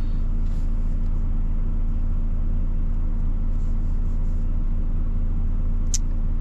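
Truck's diesel engine running steadily as a low, even hum heard inside the cab, with one short sharp click near the end.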